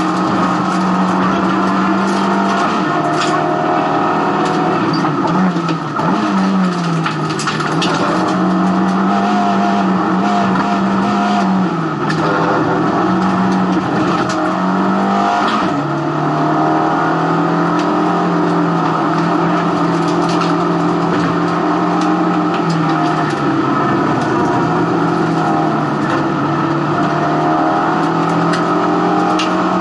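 Race car engine heard from inside the stripped, roll-caged cabin, running hard at high revs under load. Its pitch drops and climbs back several times, and occasional sharp clicks cut through.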